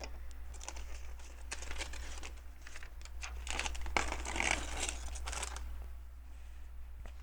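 Hands rummaging among LEGO pieces: a plastic parts bag crinkling, with small plastic bricks clicking against each other. The rustle is densest in the middle and quietens for the last second or so.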